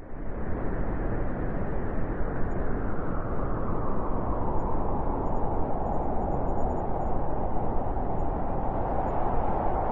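Strong wind blowing steadily through a snowy forest, a blizzard gusting with a dense, low rushing noise. It fades in from silence right at the start.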